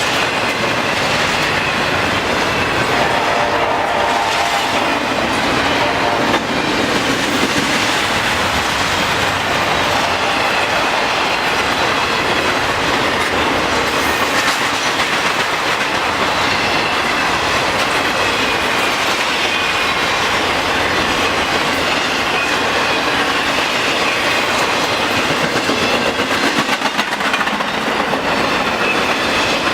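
Intermodal freight cars rolling past at speed, their wheels clacking steadily over the rail joints in a continuous loud rumble.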